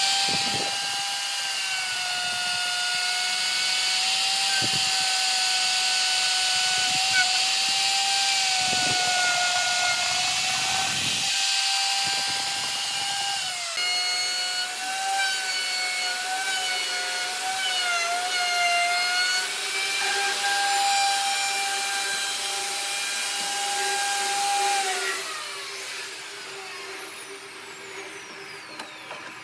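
Electric power tool working wood: its motor runs with a steady high whine that wavers and dips slightly under load, then is switched off about 25 seconds in and winds down, its pitch falling away.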